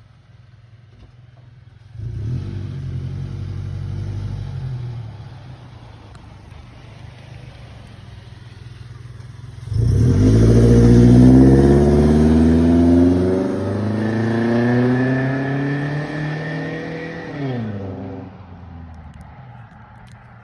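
Exhaust of a Toyota Tacoma 2.7 four-cylinder through a Flowmaster 50 Series Delta Flow muffler under a full-throttle pull. A first stretch of louder running comes about two seconds in. Near halfway the engine opens up suddenly with its pitch climbing, dips once as it shifts, climbs again and then falls away as the throttle is released near the end.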